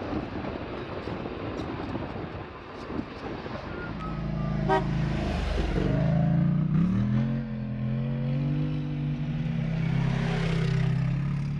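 Two quads (ATVs) driving past one after the other, a few seconds apart, their engine pitch sliding as they go by, over a steady engine drone.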